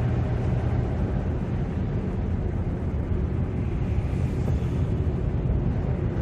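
Steady in-car driving noise: a low engine and road drone from the vehicle in motion, with a low hum that fades about a second in.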